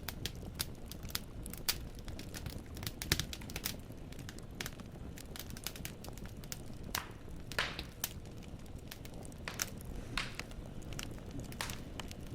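Firewood burning in a fireplace, crackling with irregular sharp pops of varying strength over a steady low rumble of the flames; a few louder pops stand out, about three seconds in, halfway through and about ten seconds in.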